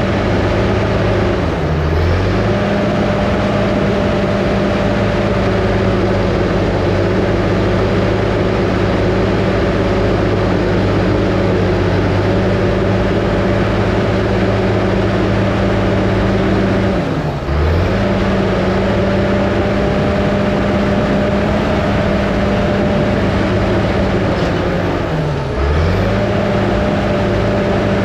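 Diesel engine of an 850 crawler dozer running steadily under work while pushing dirt. Three times its pitch dips briefly and recovers, the engine pulled down for a moment by the load.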